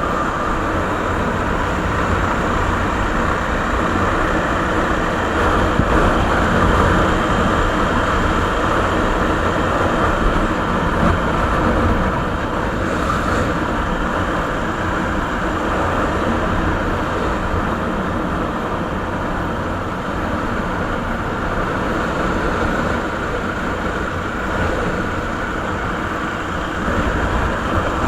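Suzuki Savage's 650 cc single-cylinder four-stroke engine running steadily through its stock exhaust.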